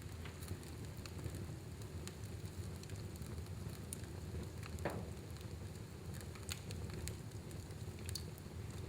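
Fire burning in a fireplace: a steady low rumble and hiss with a few scattered sharp crackles, the clearest about five seconds in.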